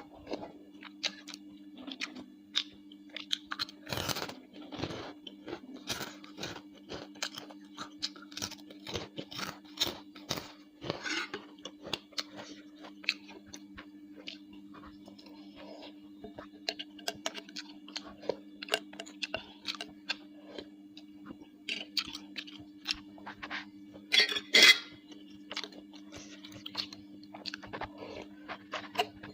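Close-miked chewing and mouth sounds of someone eating bakso, with irregular short clicks and smacks, a louder burst about twenty-four seconds in, over a steady low hum.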